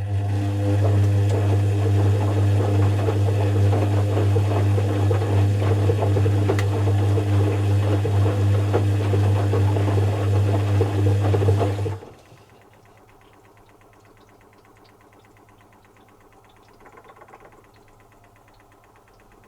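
Zanussi FC1000 compact washing machine running: a loud, steady hum with rattling over it, which cuts off suddenly about twelve seconds in, leaving only faint sound until it starts again at the very end.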